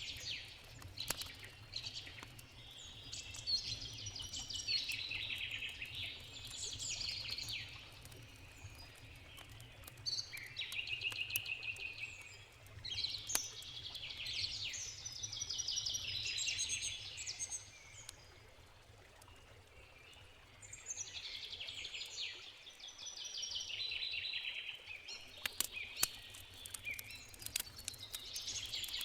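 A songbird sings repeated trilled phrases every few seconds, with a pause in the middle. Over it, a campfire crackles with scattered sharp pops.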